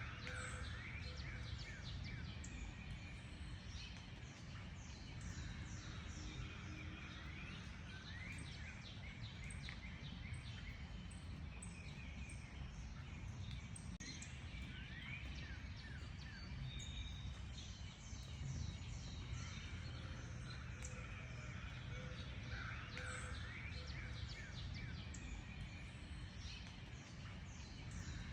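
Several wild birds chirping and singing at once: a continuous mix of quick high chirps and short rising and falling whistles, over a steady low rumble.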